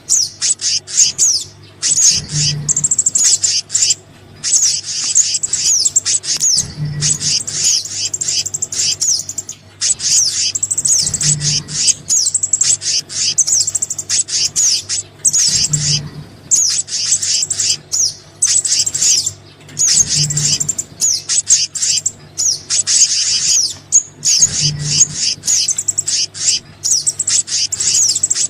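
Bird-lure recording of small songbirds, combining sogon and kehicap calls: dense, rapid high-pitched chirping and twittering without a break. A short low tone comes back about every four and a half seconds as the recording loops.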